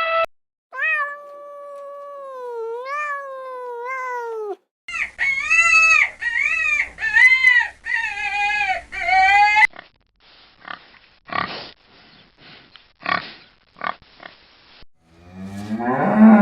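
Farm animal calls in turn: a long wavering, falling cry, then a run of about eight short high squeals, then a string of short grunts, typical of pigs. A horse starts to whinny right at the end.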